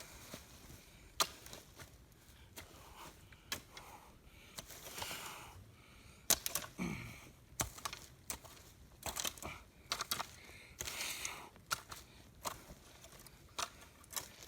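Dirt, leaves and twigs being scraped and moved around a cut stump: rough scraping and rustling swells broken by sharp clicks and snaps of sticks. The loudest snaps come about a second in and a little past six seconds.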